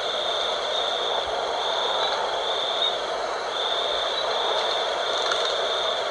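Night wind blowing steadily, with a continuous high-pitched trill that runs in stretches of about half a second to a second with short breaks.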